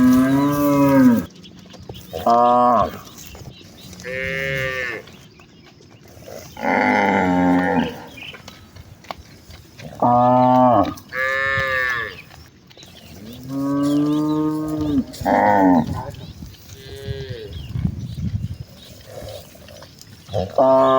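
Herd of cattle mooing, several cows calling one after another at different pitches. There are about nine long moos, some overlapping, with short quieter gaps between them.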